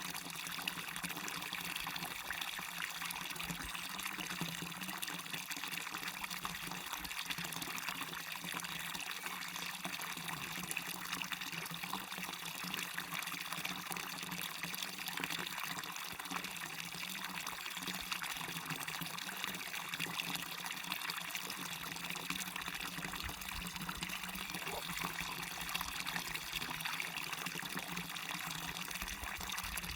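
Small waterfall: a steady rush and splash of falling water that holds even throughout.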